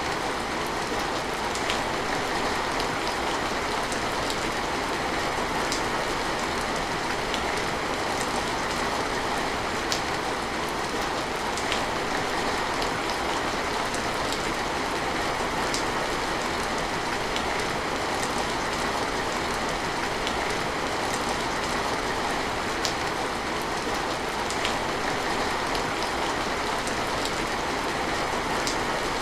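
Steady heavy rain: a constant, even hiss of falling rain with scattered sharper drop ticks through it.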